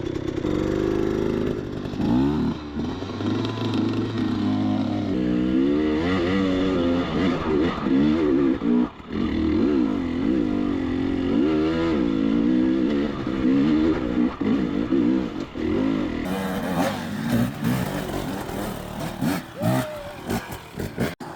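Dirt bike engine revving up and down over and over as the throttle is worked in low gear, climbing over slick rock. About 16 seconds in the sound changes to a brighter, rougher engine noise.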